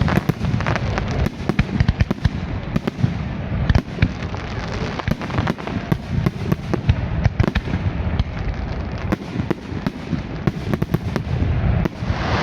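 Fireworks display going off: a rapid run of many overlapping bangs and crackles over a steady low rumble.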